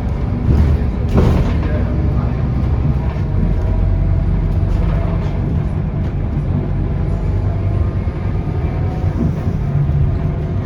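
Scania K230UB city bus heard from inside the cabin while under way: the diesel engine running steadily with road noise, and a few brief knocks or rattles about a second in.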